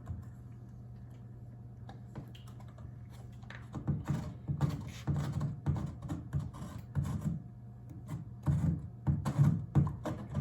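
A hot plastic-welding iron tapping and scraping on a plastic kayak hull as melted plastic and wire mesh are worked into a hole: irregular light clicks that start about four seconds in, over a steady low hum.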